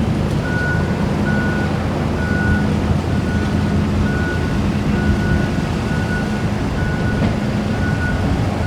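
Steady low engine hum with a high electronic warning beep repeating about once a second, like a vehicle's reversing alarm.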